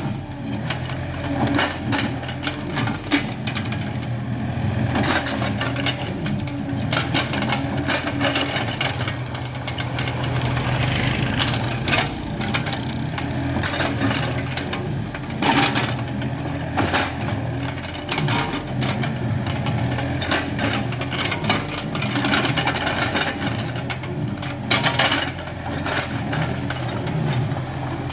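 Excavator's diesel engine running steadily under work, with frequent sharp knocks and clanks from the digging throughout.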